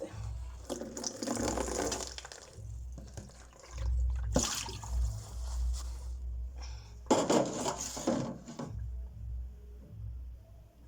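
Water splashing and pouring in three separate bursts as mushrooms are rinsed clean of dirt by hand.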